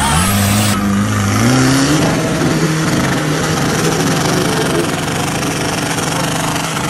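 Off-road 4x4's engine revving hard, its pitch climbing in steps over the first two seconds and then holding at high revs, with a loud steady hiss over it.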